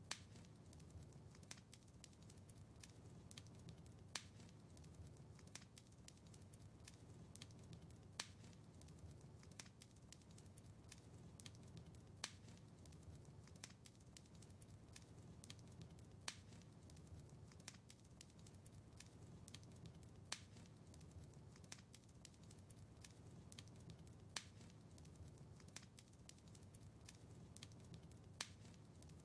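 Faint crackling wood fire in a fireplace: a low, soft rumble of flames with many small sharp pops and ticks, and a louder pop about every four seconds.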